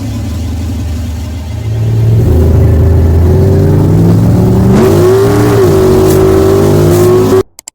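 Dodge D150 pickup's engine running, growing louder about two seconds in and rising in pitch as it revs near the middle, then cutting off suddenly just before the end.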